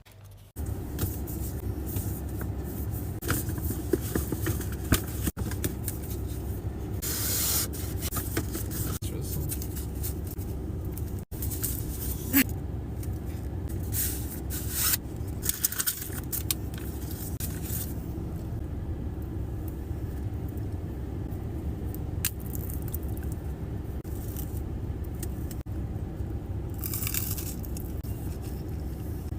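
Close-miked chewing and crunching of a crispy-filled Dubai chocolate bar, with crisp bites every few seconds over a steady low hum.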